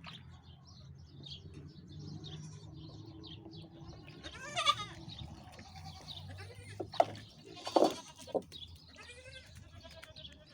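Farmyard animals calling now and then: a few short, wavering pitched calls, with some sharp knocks about two-thirds of the way in.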